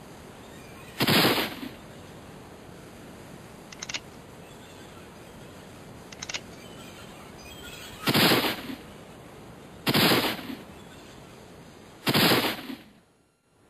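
Four loud gunshot sound effects, one about a second in and three close together later, each dying away quickly, over a steady hiss. Two faint clicks fall between the first and second shots.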